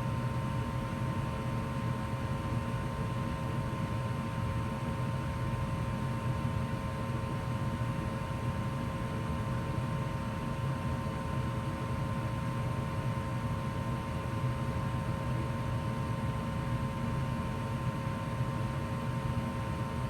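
2004 Goodman gas furnace running steadily in heat mode: an even rush of air and burner noise with a steady hum.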